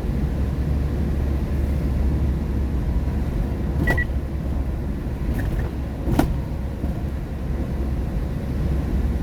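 Car cabin noise while driving on a highway in the rain: a steady deep rumble of tyres and road. Two sharp clicks are heard, about four and six seconds in.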